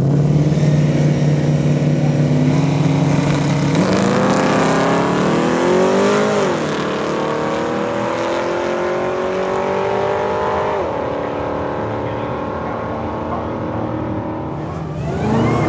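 Drag race car's engine, holding a steady note and then accelerating hard, its pitch climbing and dropping sharply at two upshifts about six and a half and eleven seconds in, then easing off as the car pulls away.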